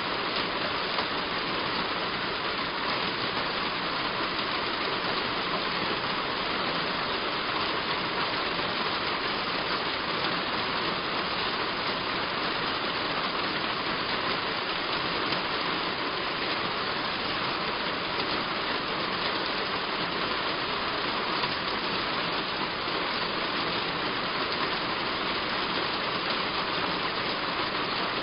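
Heavy rain falling steadily on a roof, an even unbroken hiss with no single drops or gusts standing out.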